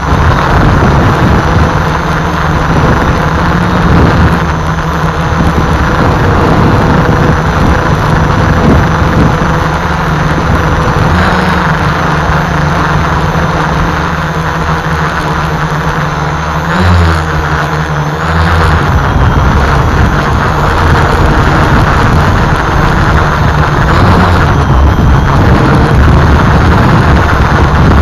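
Strong gusty wind buffeting the microphone, mixed with the whine of a DIY multicopter's electric motors and propellers. The motor pitch wavers and bends partway through as the copter works against the gusts.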